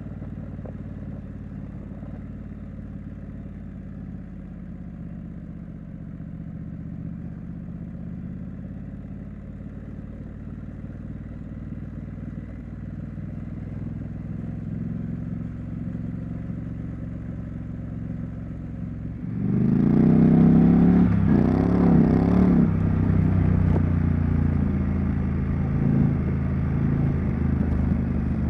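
Triumph Street Scrambler's 900 cc parallel-twin engine and exhaust running steadily at low revs, then about two-thirds of the way through the throttle opens and it gets suddenly louder, revving up with rising and dipping pitch as the bike accelerates, before settling into louder steady running.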